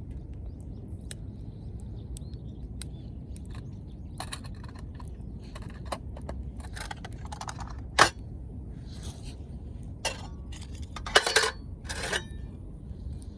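Metal cookware being handled: scattered light clinks, a sharp knock about eight seconds in and a short burst of clattering near the end, over a steady low rumble.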